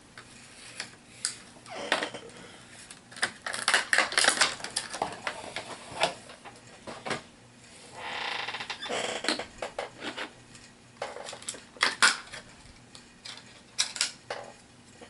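Hands handling plastic booster packaging and small plastic miniatures: irregular clicks and crinkles, with a longer rustle about eight seconds in.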